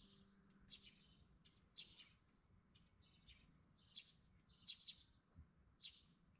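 Faint birds chirping outdoors: short, high calls repeating irregularly about once a second.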